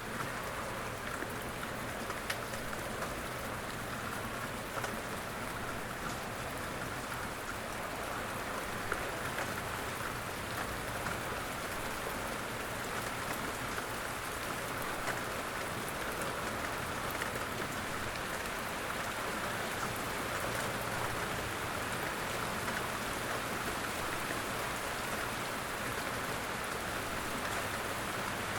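Steady rain falling, a continuous hiss with scattered drops pattering on a surface.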